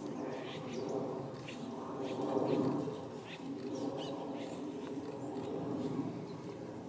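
Small birds chirping in short, quick calls throughout, over a steady lower background drone.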